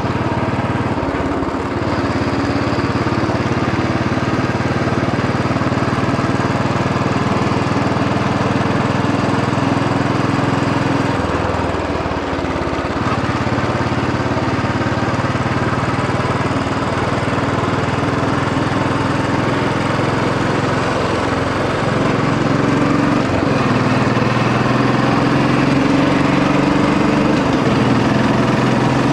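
Royal Enfield Bullet 500 EFI's single-cylinder engine running while the motorcycle is ridden, heard from the rider's position. The engine note steps in pitch a few times, about a second in, around the middle and again near the end, as the throttle or gear changes.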